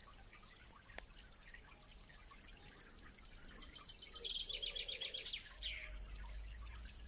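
Faint outdoor birdsong: scattered high chirps, then a quick trill of about a dozen rapid high notes a little past halfway. A low rumble comes in near the end.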